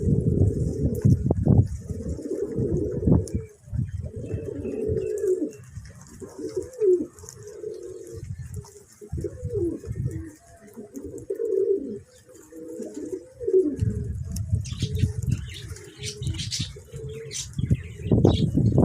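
Domestic pigeons cooing over and over, low gliding coos one after another, with a low rumble at the start and again near the end.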